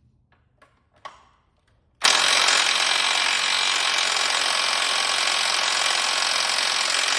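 Impact wrench running for about five and a half seconds, undoing a subframe bolt; it starts abruptly about two seconds in and runs loud and steady. A few light clicks come before it.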